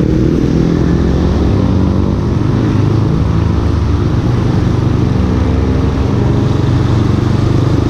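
Yamaha Scorpio Z's single-cylinder four-stroke engine running steadily under way.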